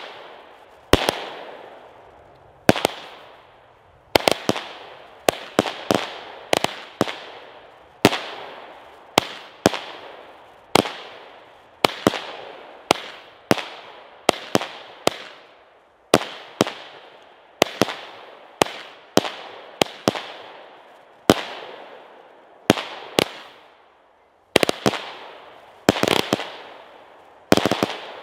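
Consumer firework battery (cake) firing shot after shot: a sharp bang about once a second, often in close pairs, each trailing off over about a second. There is a quicker cluster of shots near the end.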